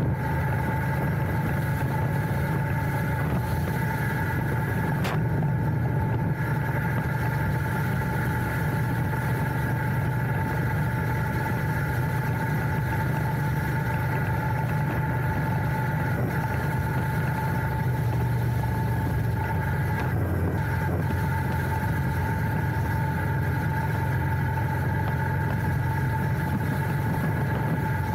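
Royal Enfield Interceptor 650's parallel-twin engine running steadily, heard from the handlebars, with a steady high whine above the engine note.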